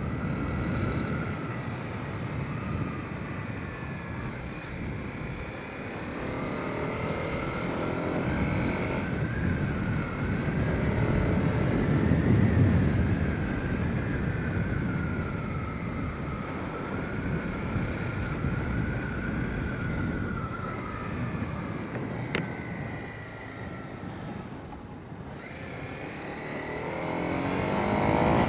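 Honda CB300R single-cylinder engine running under way, with wind noise; its pitch drifts up and down with the throttle and climbs steadily near the end as the bike accelerates.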